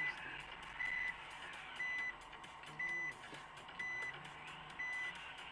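An electronic warning beep, a short high tone repeating about once a second, over low vehicle noise.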